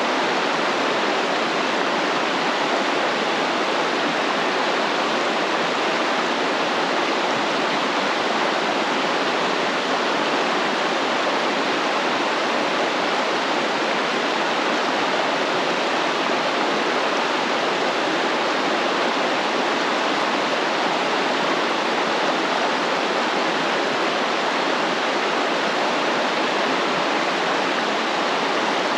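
A stream of water flowing and splashing in a steady, unbroken rush.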